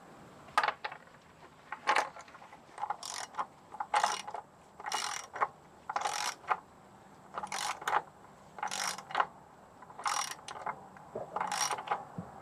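Ratchet wrench being cranked in short strokes, about one stroke a second, each stroke a quick run of pawl clicks, while a fastener is turned under the vehicle during an oil change.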